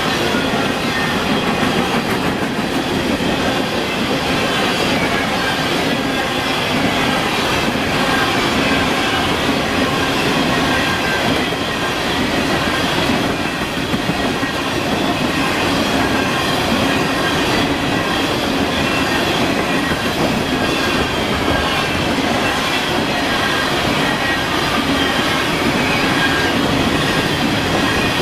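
Freight train rolling past at trackside: a steady, loud rumble and clatter of steel wheels on rail, with faint wheel squeal.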